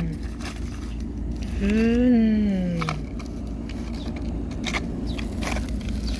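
A cow moos once, about one and a half seconds in, a call of about a second and a half that rises and then falls in pitch. Scattered clicks and knocks sound over a steady low hum.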